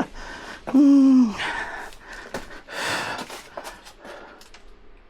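A person's voiced gasp that falls in pitch about a second in, followed by hard, breathy exhaling and small clicks and rustles.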